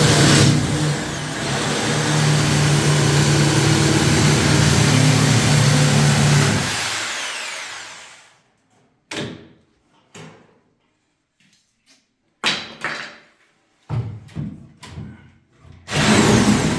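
Electric sewing machine motor running at speed through a long seam, winding down and stopping, then several short stop-start bursts of stitching, with a longer run starting again near the end.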